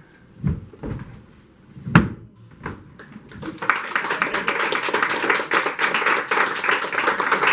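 A few scattered knocks, then an audience clapping from about halfway in.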